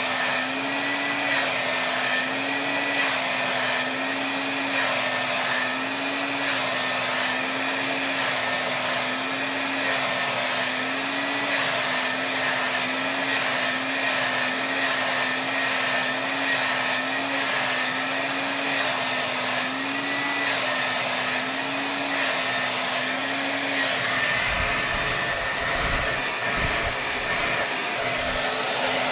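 Hair dryer running steadily at full power: a constant rush of air over a motor hum that wavers slightly in pitch. A few low bumps come in near the end, while the hum briefly drops away.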